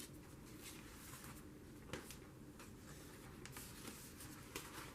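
Faint rustling of paper journal pages being handled and turned, with a few light clicks, one about two seconds in and several near the end.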